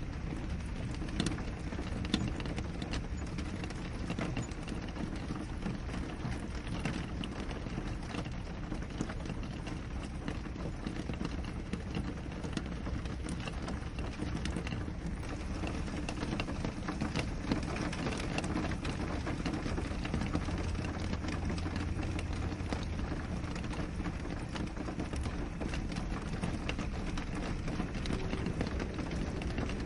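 Steady rain falling on a window pane, a continuous hiss of rainfall with many scattered, sharper individual drop ticks.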